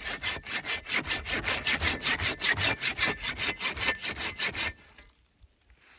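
Hand saw cutting through dead wood in quick, even strokes, about five a second, stopping suddenly about three-quarters of the way through.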